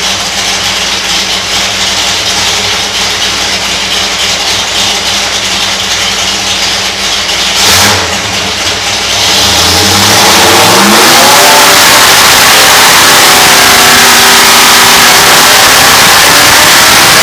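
600-horsepower carbureted Pontiac V8 on an engine dyno, running steadily at low speed, then opening up about ten seconds in for a dyno pull. Under load, its pitch climbs steadily and it stays at full loudness.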